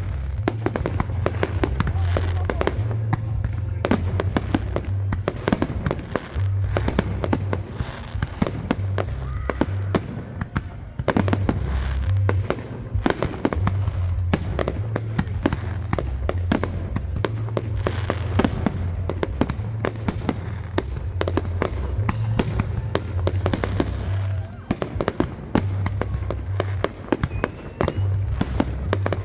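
Fireworks display: a rapid, unbroken series of sharp bangs and crackles from exploding shells, over a steady low rumble.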